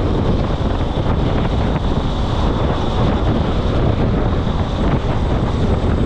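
Wind buffeting the microphone: a steady, loud rumbling rush.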